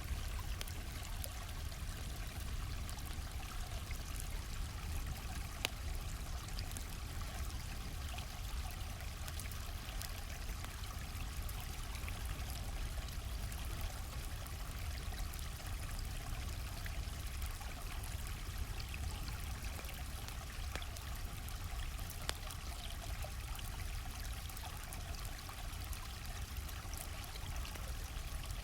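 A gently flowing stream running steadily, with the occasional sharp crackle and pop of a campfire on top, the clearest about six seconds in.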